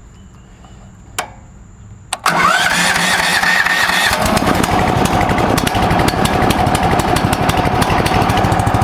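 The MechMaxx SM32 sawmill's engine starting: two sharp clicks, then about two seconds in it fires and settles into a loud, steady run, with a rising whine over the first couple of seconds of running.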